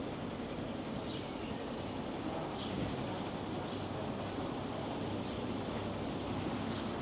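A small bird chirping repeatedly, short high falling chirps about once a second, over a steady street hum with low rumble.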